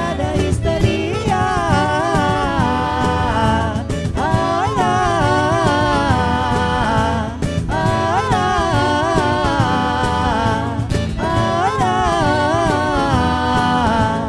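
Live band music: a high lead melody that bends and wavers in pitch, over bass, keyboards and percussion, at a steady full level.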